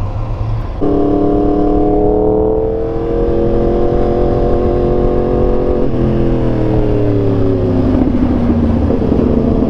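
A Yamaha R1's crossplane inline-four engine pulls away, starting suddenly and getting louder, with its revs slowly climbing. About six seconds in the pitch drops at a gear change, and near the end the revs ease off and settle lower.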